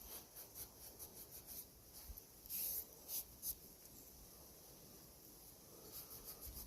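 Faint wiping and rubbing strokes on a small engine's metal being cleaned with WD-40, in quick runs, with a few louder scrubbing strokes around the middle.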